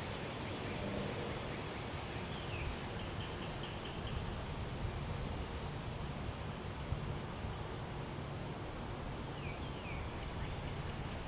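Outdoor pond-side ambience: a steady hiss of background noise with a few faint bird chirps, a short run of notes about three seconds in and two quick downward chirps near the end.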